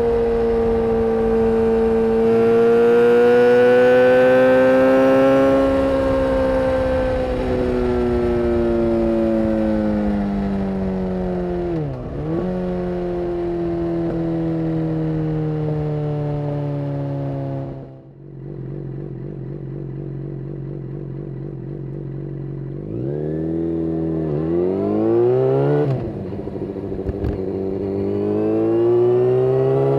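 Yamaha FZ6N's inline-four engine through a Two Brothers aftermarket exhaust, riding with the revs rising and falling through gear changes. About two-thirds in the sound drops and turns muffled, then the engine revs up in quick steps and climbs steadily near the end.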